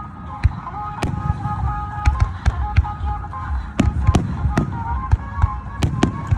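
Fireworks shells bursting in about ten sharp bangs at irregular intervals, over a simple melody of music playing underneath.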